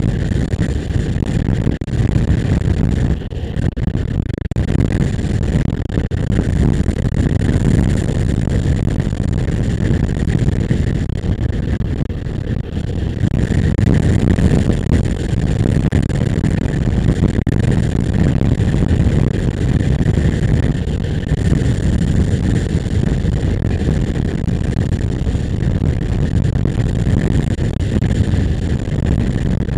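Motorcycle engine running steadily while riding, under a dense low rush of noise.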